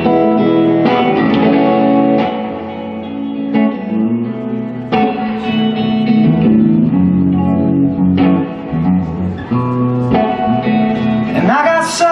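Guitar playing an instrumental passage of a live song, chords struck every second or two over a low bass line; near the end a voice slides upward.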